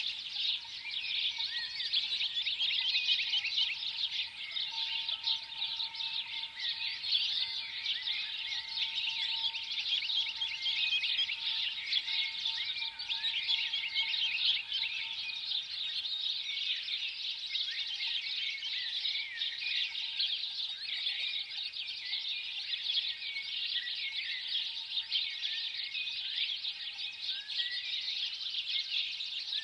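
A flock of sparrows chirping continuously, many short overlapping chirps at once, with a faint steady tone underneath.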